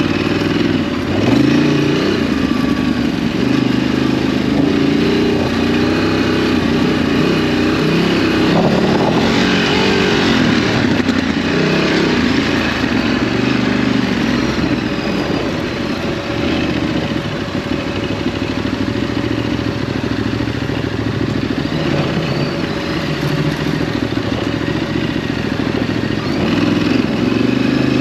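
Ducati DesertX's V-twin engine running under load on a dirt track, the revs rising and falling again and again through the ride.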